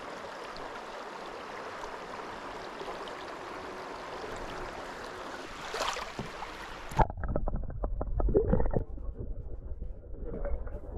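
River water running steadily. About seven seconds in the sound suddenly turns muffled, a low rumbling and gurgling with many small knocks.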